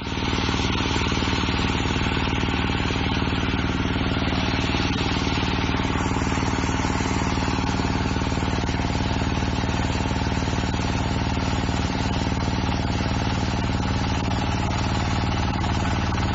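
Engine running steadily at an even speed, driving the hydraulic system that powers a rock splitter.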